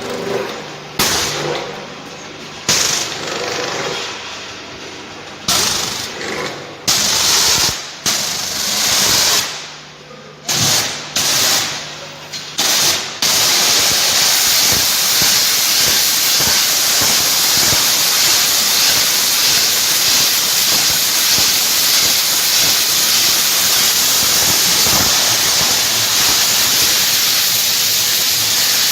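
Explosion-proof high-pressure washer spraying water. For about the first half the jet comes in short bursts that start and stop abruptly over a steady low machine hum. About halfway in it settles into one continuous loud spray hiss.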